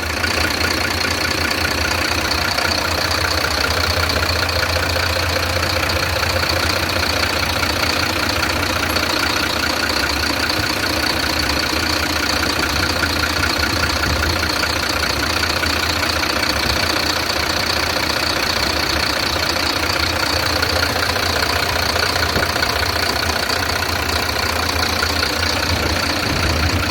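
BharatBenz BS6 truck diesel engine idling steadily, with a constant high-pitched whine over the low engine note.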